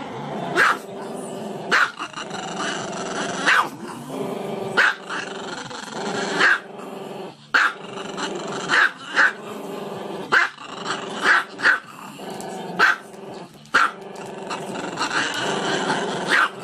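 Small black-and-tan dog vocalizing with its head raised: a drawn-out low sound, broken by sharp, high yaps about once a second.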